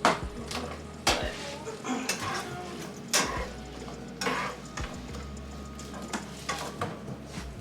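Ground taco meat frying in a pan, with a cooking utensil stirring and knocking against the pan several times.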